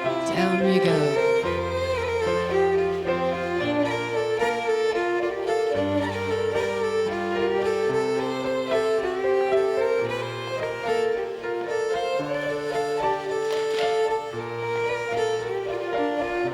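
Live contra dance band playing a lively fiddle-led tune, with a bass line stepping to a new note about every two seconds under the melody.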